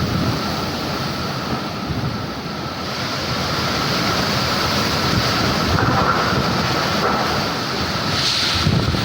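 Strong storm wind blowing across the camera microphone: a steady rushing noise that swells and eases a little.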